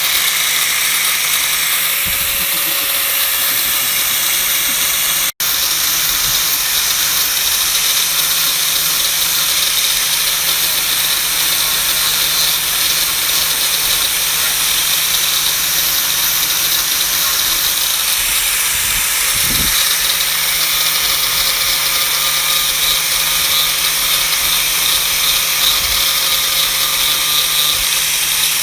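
An electric power tool running steadily: a motor hum under a loud, even hiss, as of grinding or sanding metal. The sound cuts out for an instant about five seconds in.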